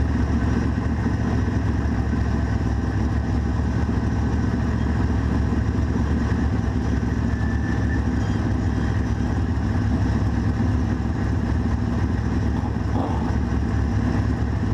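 Race car engine idling steadily at low speed, heard from inside the cockpit.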